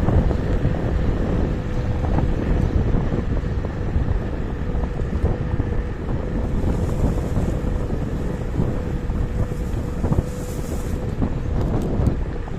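Wind buffeting the microphone and road rumble while riding a KuKirin G2 electric scooter, with a faint steady whine throughout.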